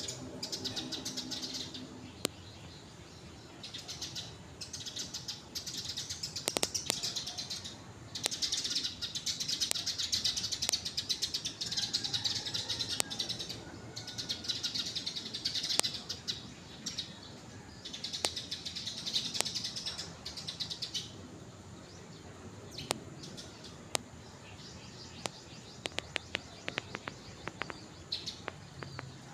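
Small birds chirping: bursts of rapid, high twittering a second or two long, with short pauses between them. Near the end the chirping thins to scattered sharp ticks.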